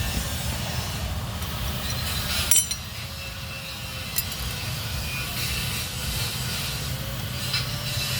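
Metal tools and engine parts clinking against each other during motorcycle engine disassembly: a few sharp clinks, the loudest about two and a half seconds in with a brief ring, over a steady low rumble.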